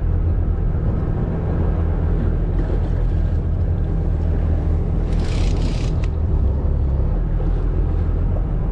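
Fishing boat's engine running steadily as a low hum, with wind and water noise over it and a brief hiss about five seconds in.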